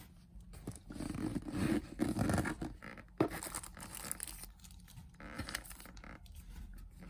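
A cardboard model box and its packaging being opened and handled by hand: irregular rustling, scraping and tearing, with a sharp knock about three seconds in.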